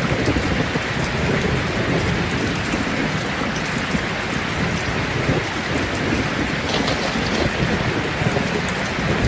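Steady rain falling, with a low rolling rumble of thunder underneath.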